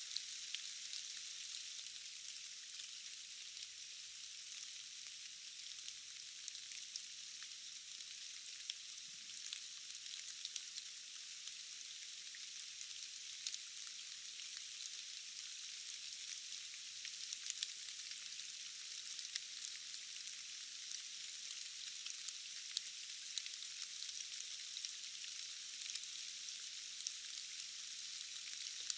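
Steady rain falling: an even, thin, high hiss with no low rumble, dotted with scattered ticks of individual drops.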